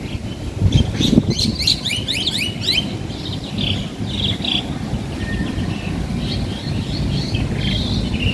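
Caged birds in an aviary chirping: a quick run of rapid, downward-sweeping high chirps in the first few seconds, then scattered shorter calls, over a steady low background rumble.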